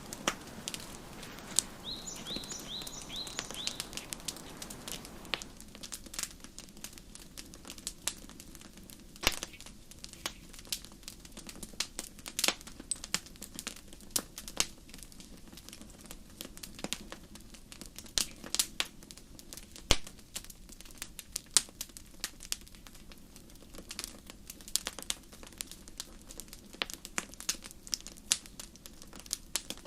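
Wood fire crackling, with irregular pops and snaps. About two seconds in, a bird chirps a quick run of short high notes.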